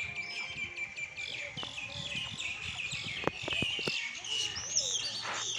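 Mynas calling in a fast, dense run of chirps during courtship, which looks like a fight. A few sharp clicks come a little over three seconds in.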